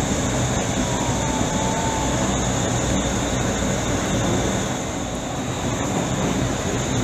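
Steady noise inside a Tobu Railway train car on the steel Sumida River railway bridge, with a faint short whistle about a second in.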